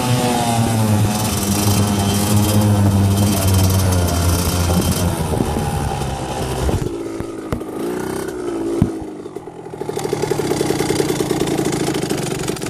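A small motor vehicle engine running loudly. It holds steady for about six seconds, then its pitch falls and rises a few times, and near the end it settles into a fast, even beat.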